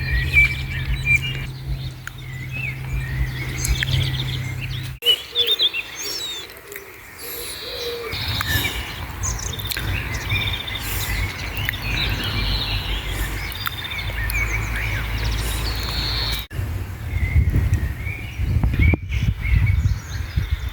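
Small songbirds chirping and singing, many short calls overlapping, over a strong low rumble. The sound changes abruptly a few times, about five seconds in and again near the end.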